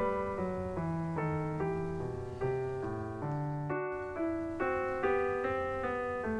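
Background piano music: an even, unhurried run of single notes and chords, about two or three to the second, with a brief break near the middle.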